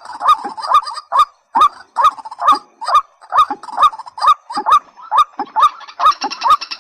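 Waterhen calls: short rising notes repeated about two or three times a second, each with a sharp click. Near the end a higher, denser chatter joins in.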